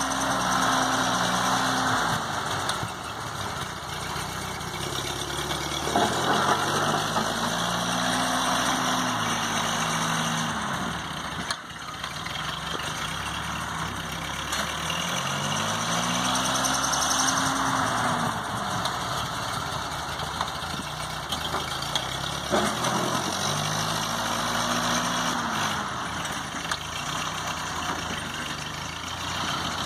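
1952 Ford 8N tractor's four-cylinder gasoline engine running while plowing heavy wet snow. Its pitch rises and falls again in a repeating cycle, about every seven or eight seconds, as the load comes on and eases.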